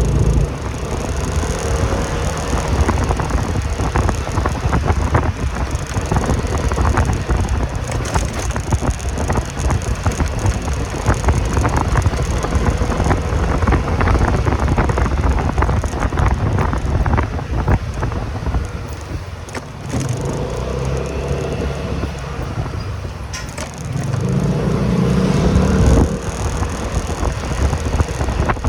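Motorcycle running under way, engine rumble with wind and road noise on the microphone. A spell of rattling clicks in the middle, and the engine note rises a few seconds before the end as it accelerates.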